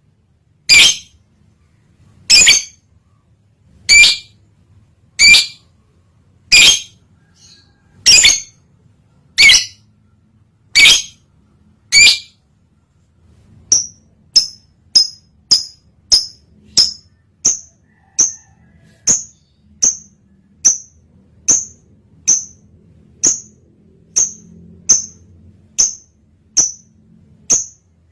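Lovebird in breeding condition giving sharp, shrill single calls, about one every second and a half. About halfway through they change to shorter, thinner chirps coming a little faster, under two a second.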